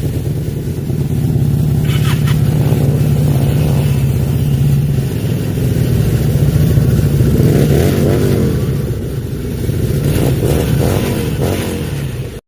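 FKM Victorino 250i's 250cc air-cooled four-stroke V-twin running at idle, with the throttle blipped twice in the second half. The engine sound cuts off suddenly near the end.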